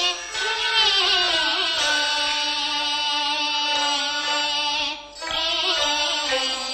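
Teochew opera music: a long melodic line held with vibrato over steady instrumental accompaniment, breaking off briefly about five seconds in before going on.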